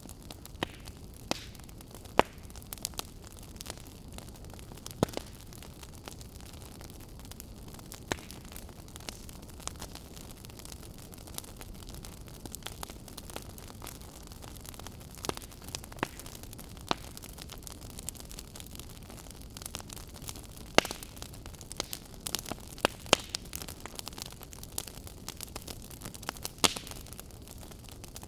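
Burning firewood crackling: a steady low hiss broken by irregular sharp pops and snaps, which come more thickly in the last third.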